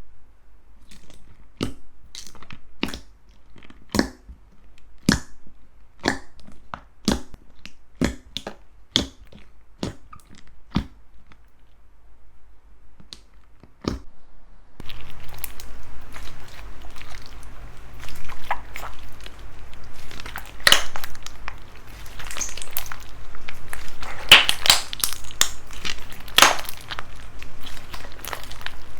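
Slime being handled for ASMR: sharp crunchy pops about once a second for the first half. After an abrupt cut just before halfway, a denser crackling and crinkling crunch takes over, with louder crunches near the end.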